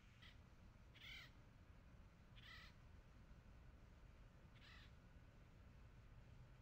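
A bird calling four times, each call short and faint, spread over a few seconds with a steady low background noise underneath.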